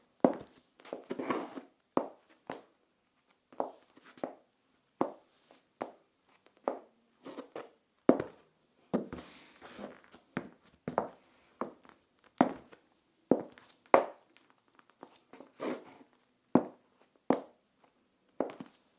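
Stiletto high heels with plastic heel tips walking on a tile floor. Each step gives a sharp click with a short room echo, at a steady pace of a little more than one step a second.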